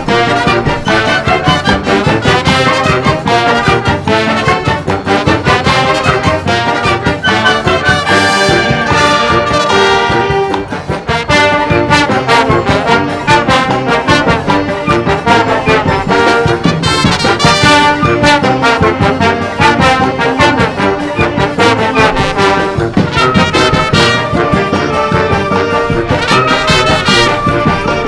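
Brass band playing a lively forró tune, trumpets and trombones to the fore over a steady beat, with a brief drop in loudness about ten seconds in.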